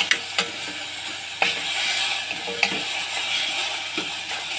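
Food sizzling in a pan: a steady hiss with a few sharp pops scattered through it.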